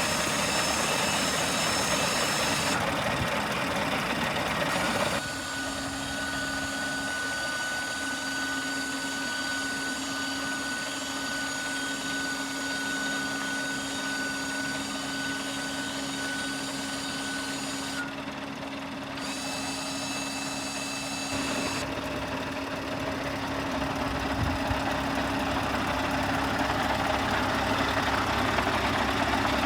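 An engine running steadily, its sound changing abruptly a few times.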